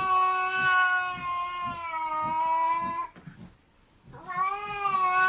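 Domestic cat yowling: one long drawn-out call that sags slightly in pitch and stops about three seconds in, then a second yowl starting near the end.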